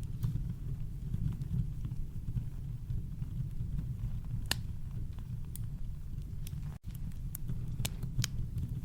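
Campfire crackling: scattered sharp pops and snaps of burning wood over a steady deep rumble of brown noise, with a split-second dropout about two-thirds of the way through.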